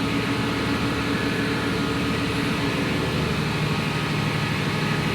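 Steady loud din of a tug's engine room: diesel machinery and ventilation running, with an even low hum and no breaks.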